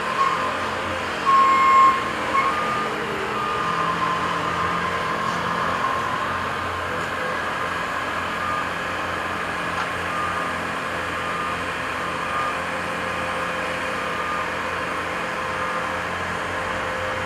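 Heavy construction machines running steadily, with a backup alarm beeping on and off throughout; the beeping is loudest about one to two seconds in.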